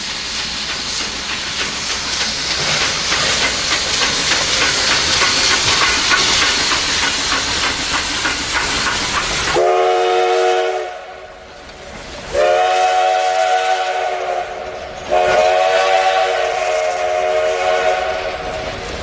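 A train passing with a steady rumble and rapid clacking of wheels on the rails. About halfway through, its horn sounds three times as a chord of several tones: one short blast, then two longer ones.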